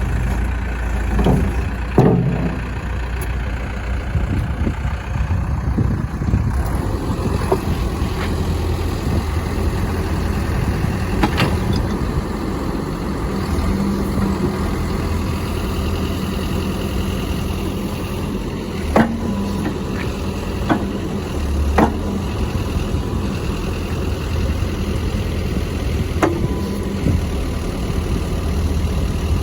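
Caterpillar 420F IT backhoe loader's diesel engine running steadily, with a few short sharp clanks scattered through.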